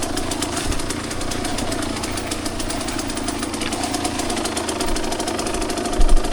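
Two-stroke dirt bike engine running at a fairly steady, moderate throttle with a rapid firing rattle. A few low thumps come near the end.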